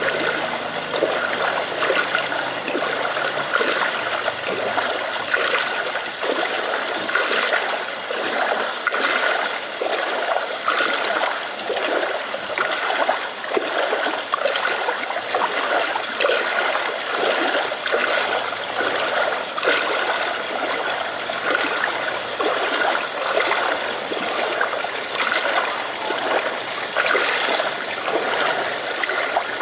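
Rainwater running and trickling steadily, with fine splashing throughout.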